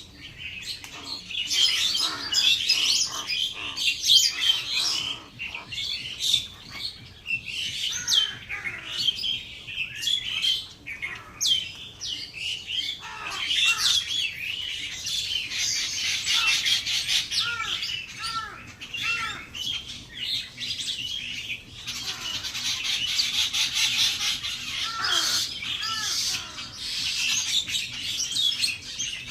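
A flock of birds chirping and squawking together, many short overlapping calls making a dense, continuous chatter with some louder, lower squawks in places.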